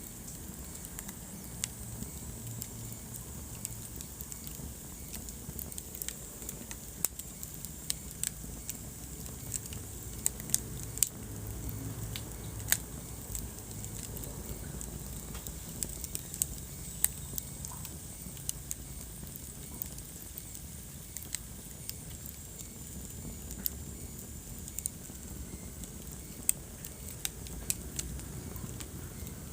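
Wood fire burning in a fireplace, crackling with frequent irregular sharp pops over a low, steady rumble of flame.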